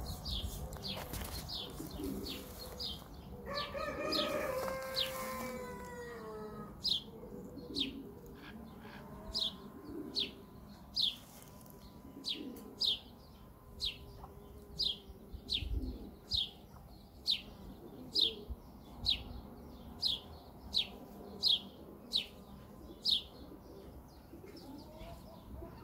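A small bird calling over and over with a short, high chirp, about once a second and a little faster at first. A lower, drawn-out call falling in pitch sounds about four seconds in.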